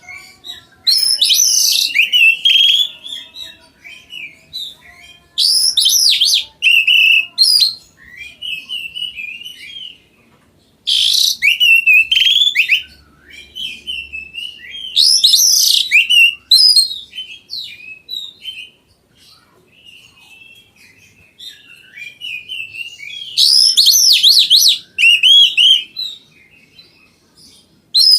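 Oriental magpie-robin (kacer) singing: five loud phrases of rapid, varied, high-pitched song, each lasting a second or two, with quieter twittering in between.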